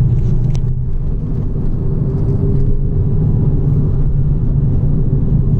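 Peugeot 208 GTI 30th's 1.6 turbocharged four-cylinder engine running at a fairly steady note under way, with road and tyre rumble, heard from inside the cabin.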